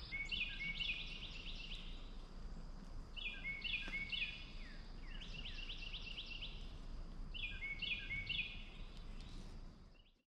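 A songbird singing four songs a couple of seconds apart, each a quick run of repeated high chirping notes, over a faint low outdoor rumble that fades out near the end.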